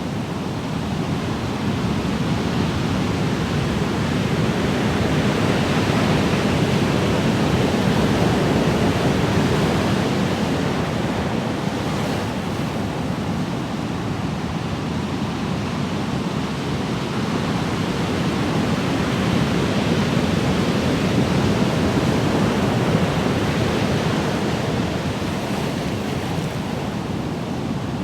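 Ocean waves washing ashore as a continuous rushing surf that swells and eases slowly, building twice to a peak.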